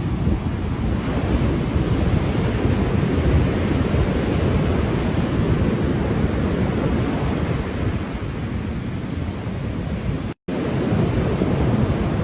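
Ocean surf washing and breaking in a steady, rumbling noise, with wind buffeting the microphone. The sound cuts out completely for a split second about ten seconds in.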